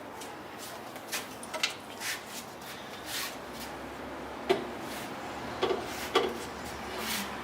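Tin snips cutting, an irregular series of sharp snips and clicks, the loudest about four and a half and six seconds in.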